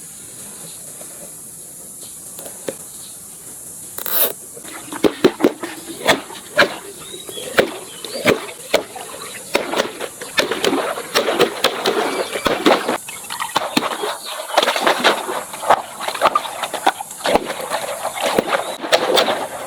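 A steady hiss, then from about four seconds in a rapid, busy jumble of sharp clicks and short squeaky sounds.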